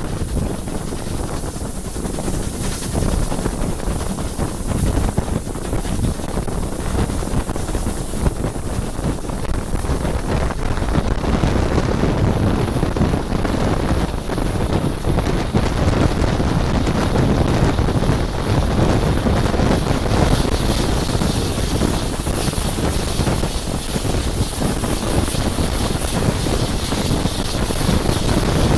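Wind buffeting a microphone held out of the window of a moving steam-hauled train, over the steady rumble of the carriage running along the track. It grows a little louder after about ten seconds.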